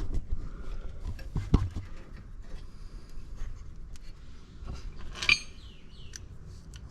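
Metal tools and brake parts clinking and knocking as they are handled, with a sharp knock about a second and a half in and a ringing metallic clink just after five seconds.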